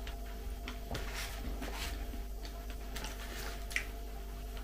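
Soft, wet chewing of sushi rolls and a few light clicks of chopsticks against a plastic tray, over a steady low hum.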